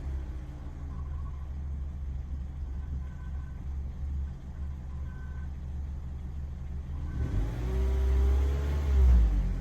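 Vauxhall Corsa D 1.2 petrol engine running at idle, revved once near the end with the pitch rising and falling back. A few short, faint high squeaks come through in the middle: the squeal from near the drive belt that the owner cannot yet locate.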